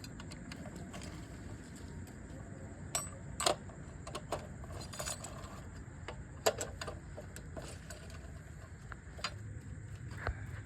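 Irregular light clicks and taps of tools and metal parts being handled, with two sharper knocks about a third and about two thirds of the way through.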